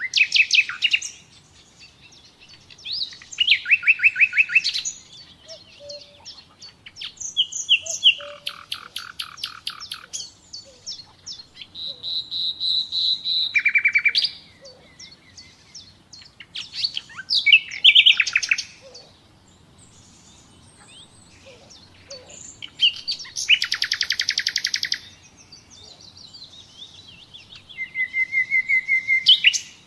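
Common nightingale singing: separate phrases of rapid repeated notes and fast trills, one with a held whistled note, each a second or two long with short pauses between.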